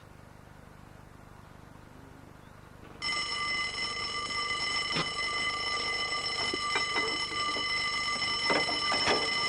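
Tram wheels squealing against the rails: a steady, high, many-toned squeal that starts suddenly about three seconds in and holds, with clicks and knocks from the wheels on the track. Before it there is only a low, quiet running background.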